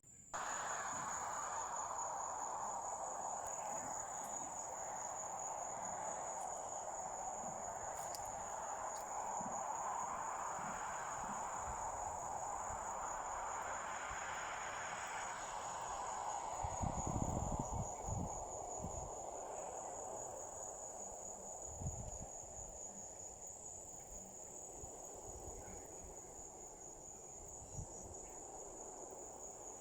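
Crickets chirring in a continuous high trill, over a steady background rush. There is a short cluster of low thumps a little past the middle and one more a few seconds later.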